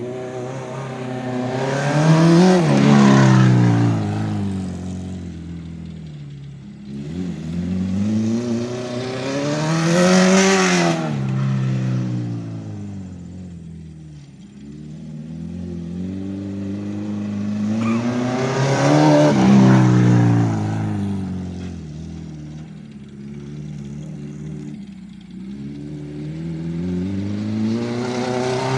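Acura RSX race car engine revving up and falling back again and again as it laps a small dirt track, the pitch and loudness peaking about every eight to nine seconds, four times in all.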